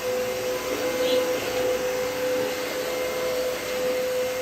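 Aspiron CA-022 wet-dry cordless vacuum mop running in its smart cleaning mode: a steady motor whine over a rush of air.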